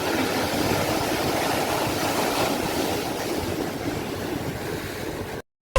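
Sea waves, a steady wash of surf, that cuts off abruptly to silence near the end.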